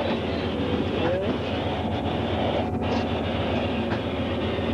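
Passenger train rolling slowly on the rails with a steady rumble. A brief rising wheel or brake squeal comes about a second in.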